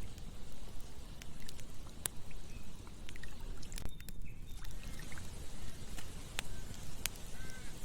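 Campfire crackling, with several sharp pops over a steady low rushing sound; the loudest pop comes about two seconds in.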